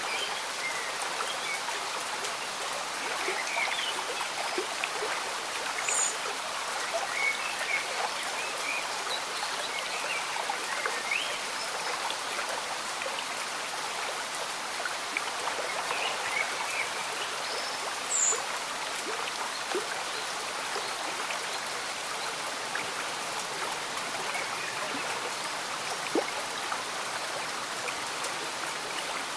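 Slow stream bubbling steadily with gentle rain falling, scattered drips ticking through it. A few faint, short high chirps, two of them higher-pitched, about six and eighteen seconds in.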